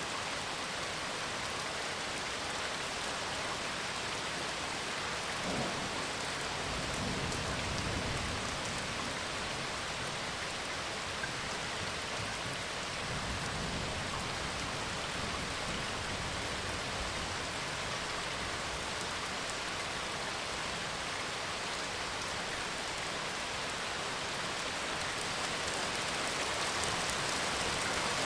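Steady rain, with low rolls of thunder rumbling twice: about five to eight seconds in, and again around thirteen seconds.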